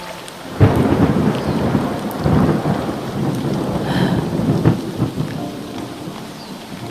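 Thunder crashing about half a second in and rumbling on over heavy rain, with further rolls about two and four and a half seconds in, easing off near the end.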